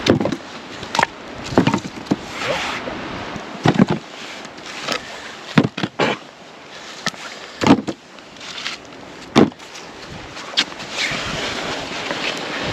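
A series of irregularly spaced knocks and thuds, roughly one a second, over a low steady rushing noise.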